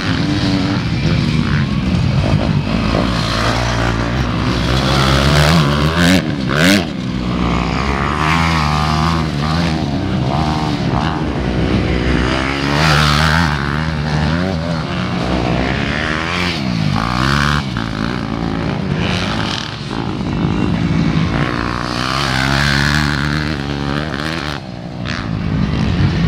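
Motocross dirt bike engines racing, their pitch repeatedly rising and falling as they rev up through the gears and back off.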